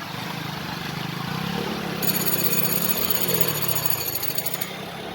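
A vehicle engine running, its pitch rising and falling. A faint high whine of several steady tones starts about two seconds in and stops shortly before the end.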